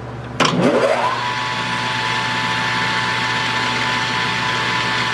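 Lathe spindle motor switched on with a click about half a second in, its whine rising over about half a second to a steady high pitch, then running steadily at speed.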